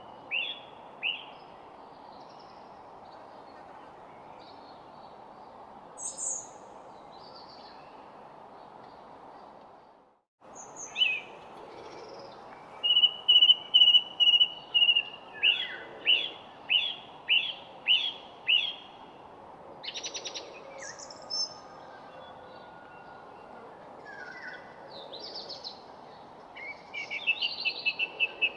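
Several wild birds singing and calling over a steady background hiss: whistled notes, runs of quick repeated chirps and a fast trill near the end. The sound cuts out briefly about ten seconds in.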